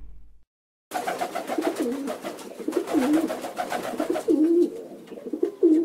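Domestic pigeons cooing in a cage: about four wavering coos, roughly a second apart, beginning about a second in over faint clicking.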